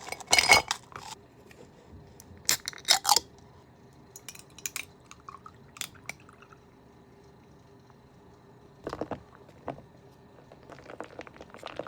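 Ice cubes clinking and knocking against a glass, with a few loud sharp clinks early on and scattered lighter clinks after.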